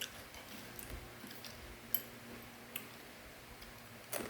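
A few short, sharp crunches from crunchy fried macaroni snack being chewed, spaced out over a few seconds.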